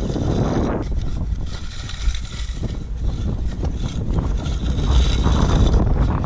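Wind buffeting the microphone: a loud, uneven low rumble with a rushing hiss above it.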